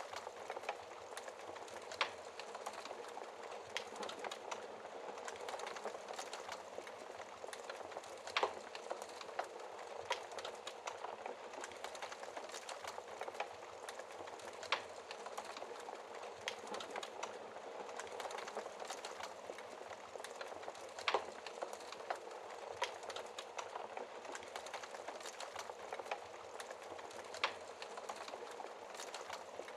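Fire in a fireplace crackling: a steady hiss of flames with sharp pops every few seconds.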